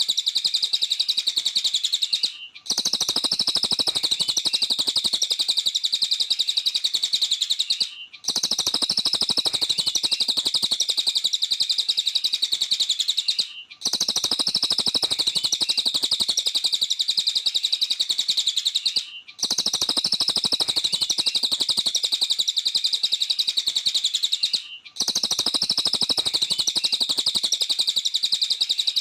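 Cililin (little spiderhunter) singing hard: a long, fast, even run of high chips, in stretches of about five and a half seconds with a brief break between each, five breaks in all.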